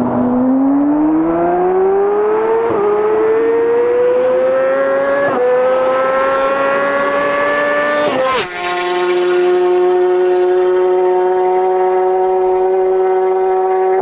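Inline-four sport bike engine at full throttle, revs climbing steadily with two quick upshifts. About eight seconds in, a bigger drop in pitch, then the engine holds a steady high drone at close to max speed.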